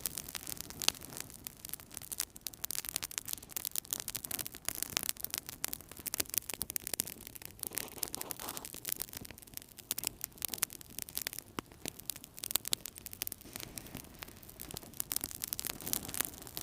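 Wood fire burning in a fireplace: irregular crackles and pops over a soft hiss, steady throughout.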